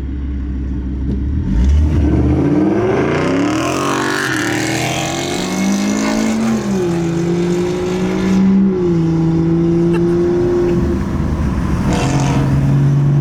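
Ford Mustang GT's 5.0 V8 through a full MBRP aftermarket exhaust, accelerating hard: the engine note climbs steeply for a couple of seconds, then holds a steady loud drone with a couple of small drops in pitch, settling to a lower steady note near the end.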